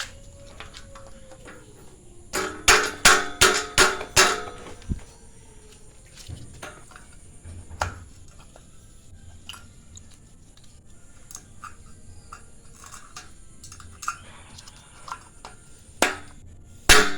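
Steel trolley parts clanking together as they are handled and fitted: a quick run of about seven ringing metal knocks, scattered light clicks, then a few more knocks near the end.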